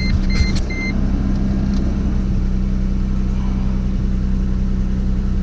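2007 Mercedes C230's engine idling steadily. In the first second the car's warning chime beeps three times, about 0.4 s apart, and there are a couple of light clicks.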